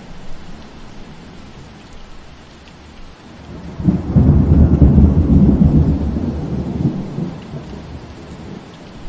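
Steady rain falling, with a rumble of thunder breaking in suddenly about four seconds in and dying away over the next few seconds.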